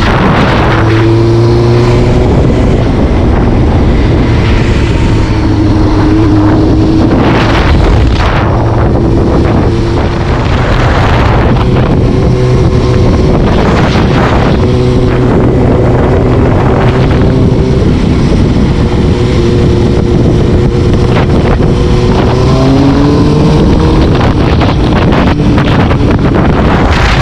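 Vehicle engine running steadily while cruising, with heavy wind rushing over the microphone. The engine's pitch climbs as it accelerates near the end.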